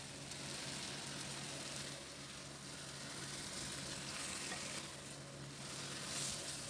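Soy-marinated chicken pieces and onion sizzling faintly in a clay pot as they are stir-fried and turned with a spatula, the sizzle swelling a little as the pieces are moved.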